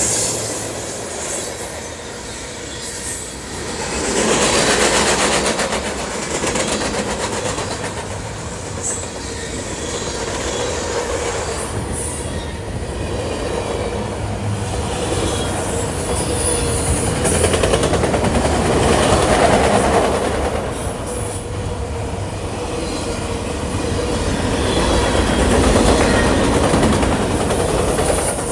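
Freight cars of a fast-moving train rolling past: a steady rush and rumble of steel wheels on rail that swells and fades, with clatter over rail joints and a faint steady wheel squeal.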